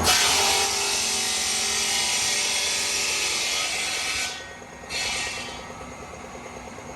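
A power tool running with a loud, high grinding hiss that breaks off about four seconds in, comes back briefly, then gives way to a quieter steady machine drone.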